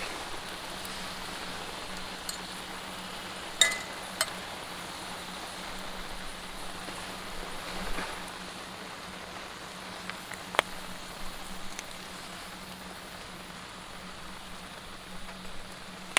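Meat sizzling on a grill as a steady hiss, with a few sharp clicks and a faint low hum underneath.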